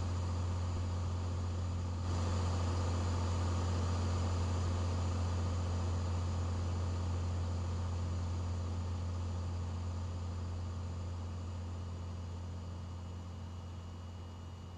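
Cessna 182's piston engine and propeller droning steadily inside the cabin, with no headset to soften it. The level steps up slightly about two seconds in, then grows gradually quieter through the second half.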